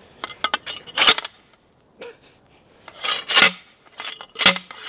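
Steel fencing hardware clanking and scraping: a few sharp metal-on-metal strikes, the later ones about a second apart, each with a short low ring.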